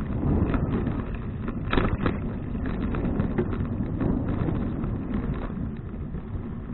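Wind rumbling on an action camera's microphone while cycling, with scattered rattles and clicks from the ride; the sharpest click comes about two seconds in.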